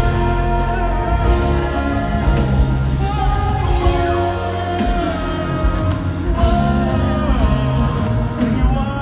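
Live band music with singing: held melody notes that slide between pitches over a steady bass.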